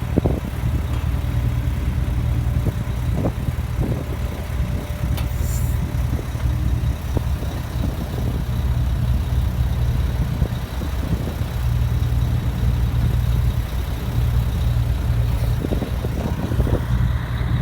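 Heavy equipment engine running steadily, with a few short clanks and knocks at the start and again near the end.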